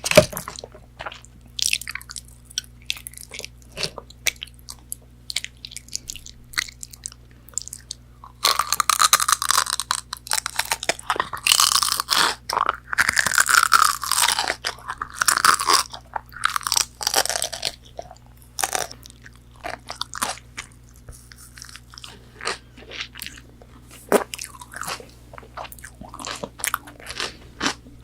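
McDonald's breaded chicken nuggets being bitten and chewed right at the microphone: scattered crisp crunches, with a louder, dense run of crunching through the middle, then quieter chewing clicks.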